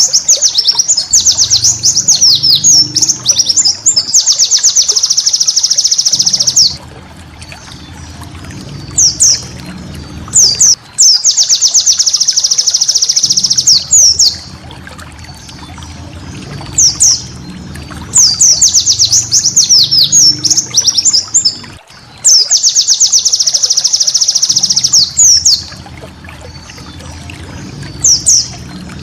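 White-eye (pleci) song: bouts of fast, high, rapid-fire chirping trills a few seconds long, repeating with short pauses between them.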